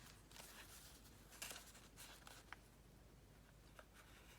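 Near silence with a few faint, brief rustles of paper pages being handled, the clearest about a second and a half in.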